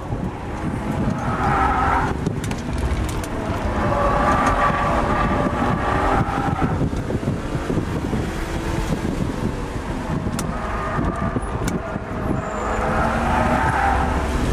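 BMW E36 M3's straight-six engine revving up and down through the gears, heard inside the cabin. Its sticky street tires squeal in three stretches, about a second in, around four to six seconds, and again from about ten seconds on, as the car slides through corners.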